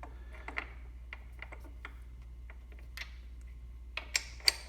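Small metal clicks and taps as a Royal Enfield Continental GT 650 foot peg is fitted upside down onto its pivot pin and spring, with three sharper clicks near the end.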